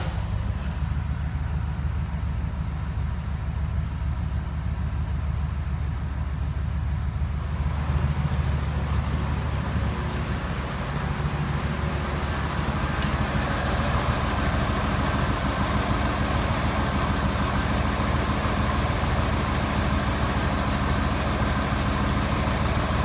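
Chevrolet 8.1-litre big-block V8 idling steadily just after starting. A thin, steady high whine comes in about halfway through.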